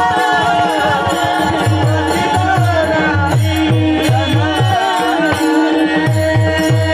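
Kirtan devotional music: a sung tune over a steady drone, with a quick, regular drum beat and light metallic clicks of hand cymbals.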